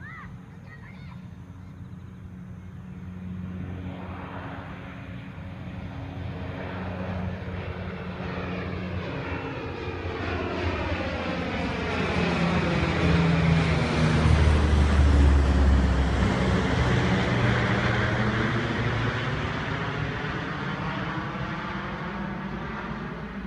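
Propeller airplane flying past overhead. Its engine drone grows steadily louder, is loudest about fifteen seconds in as the pitch drops, then fades away.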